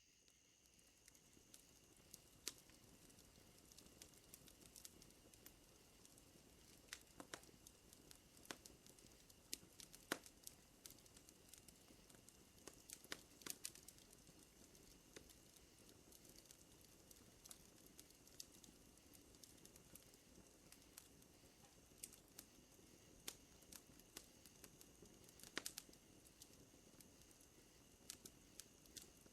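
Faint wood fire crackling, with irregular sharp pops and snaps scattered over a soft low hiss. Underneath runs a steady high trill of night insects such as crickets.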